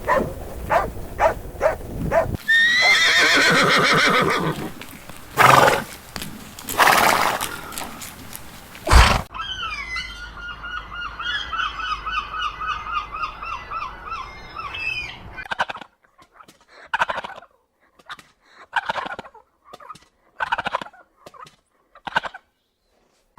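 A run of animal calls in short cut-together pieces: pitched gliding calls early on, a stretch of high chirping in the middle, then a series of separate short bursts near the end.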